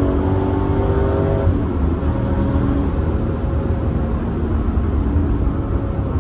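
2002 Pontiac Trans Am WS6's LS1 V8 running under load, heard from inside the car: its pitch climbs gently, then drops about a second and a half in and runs steadier, over a deep drone.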